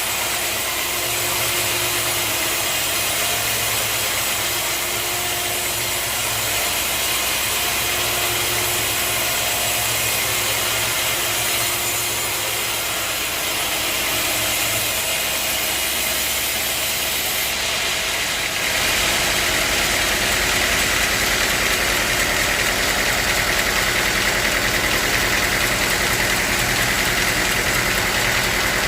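Sawmill machinery running steadily, a continuous motor-driven noise that changes tone abruptly about 19 seconds in and carries on.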